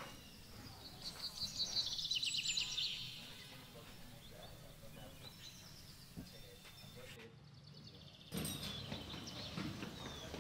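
Outdoor ambience with birds chirping: a quick run of falling chirps about one to three seconds in, then quieter background. Near the end the background gets suddenly louder, with a few short knocks.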